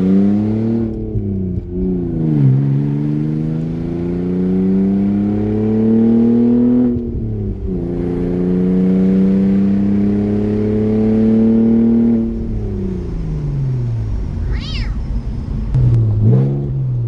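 2003 Audi A4 engine accelerating through the gears with its exhaust cut off after the catalytic converters, open and unmuffled. The pitch climbs in each gear and drops at upshifts about 2 and 7 seconds in, then falls steadily from about 12 seconds in as the car slows.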